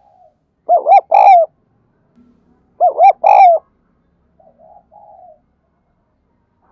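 Spotted dove cooing: two loud phrases about two seconds apart, each two short notes followed by a longer drawn-out one. Fainter, softer coos follow later.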